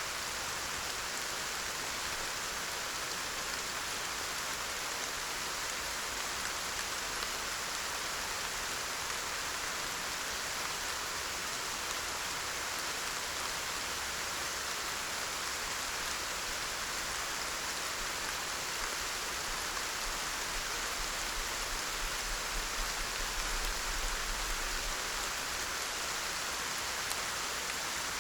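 Steady rain falling, an even hiss with no breaks. A low rumble rises underneath for a few seconds about two-thirds of the way through.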